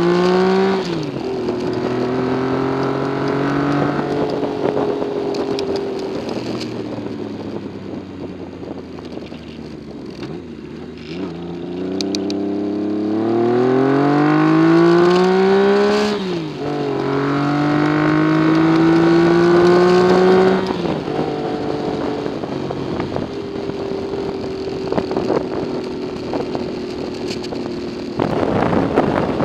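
Yamaha XS750 motorcycle's three-cylinder engine heard from the rider's seat while riding. Its pitch climbs under throttle and drops sharply at upshifts, sags as the bike eases off, then pulls hard again through two gears about halfway through before settling to a steady cruise. Wind rushing over the microphone grows louder near the end.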